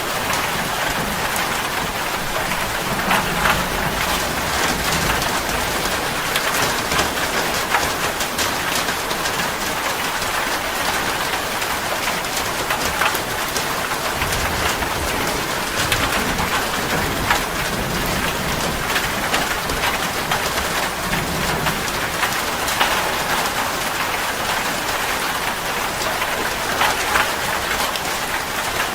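Steady rain falling hard on a surface, a dense patter of individual drops over an even hiss, with a few soft low rumbles now and then.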